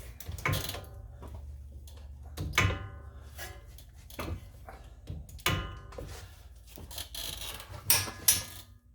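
Sharp metallic clicks with a short ring, about six spread across the stretch, from a click-type torque wrench breaking over at 90 foot-pounds on the front wheel hub's mounting bolts.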